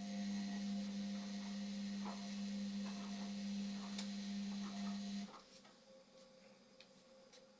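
Indesit washing machine running mid-cycle: a steady electric hum with a water-like hiss and a few faint knocks, which cuts off suddenly about five seconds in.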